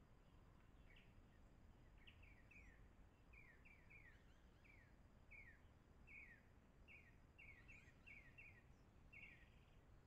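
Faint, repeated short chirps from a bird out of view, each sliding downward, coming about one or two a second, over a faint low background rumble.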